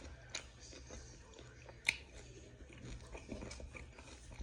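Close-up chewing of chicken gizzards, quiet wet mouth noises with two sharp clicks, the louder one about two seconds in.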